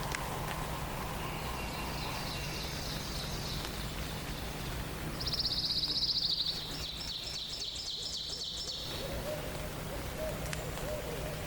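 Songbirds singing in a forest dawn chorus over steady low background noise. The loudest song is a fast, high trill about five seconds in, lasting about a second, followed by broken high notes.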